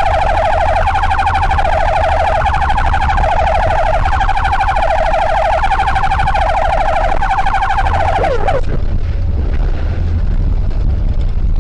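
Emergency vehicle siren sounding a fast, warbling tone that cuts off with a short falling glide about eight and a half seconds in, over a steady low vehicle rumble.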